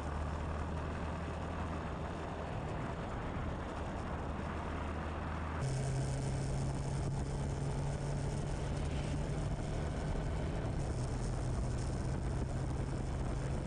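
Motorcycle engine running steadily under a steady rush of wind noise. About halfway through there is an abrupt change and the engine hum steps up to a higher pitch.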